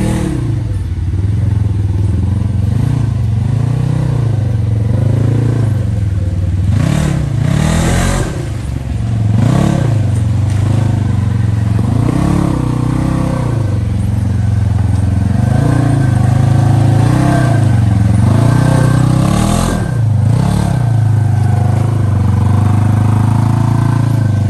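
Honda Pioneer 1000 side-by-side's engine running under load on a rough trail, its pitch rising and falling again and again as the throttle is worked, with a couple of spells of clattering from the machine partway through.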